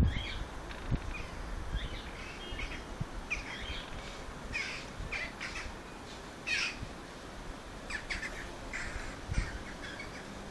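Outdoor birds calling in the background: a scattered run of short, rough calls, repeated irregularly. A few low thumps sound near the start and end.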